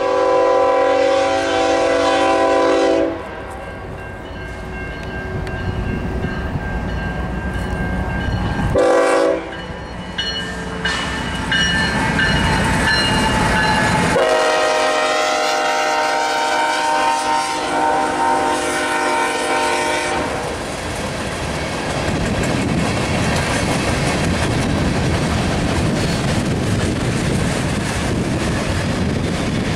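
Freight train passing close by. The diesel locomotive's air horn sounds a long blast, a short one about nine seconds in, and another long blast that ends about twenty seconds in, over the engines' rumble. Then the wheels of the freight cars rumble and click over the rail joints as the cars roll past.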